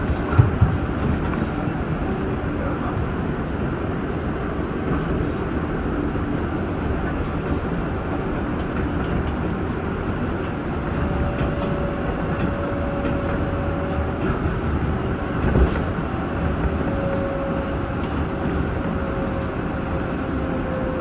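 R188 subway train running between stations: a steady rumble of wheels on rail, with a thin whine coming in about halfway and a single thump about three-quarters of the way through.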